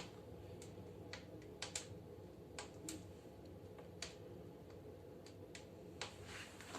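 Wood burning in a fireplace stove, crackling with irregular sharp pops and snaps over a steady low hum.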